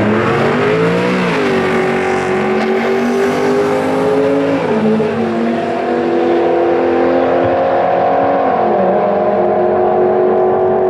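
Holden Commodore ute's V8 engine at full throttle on a drag strip run: the revs climb off the line, then the pitch drops at automatic gear changes about a second and a half in and again near five seconds in, before holding high and steady down the track.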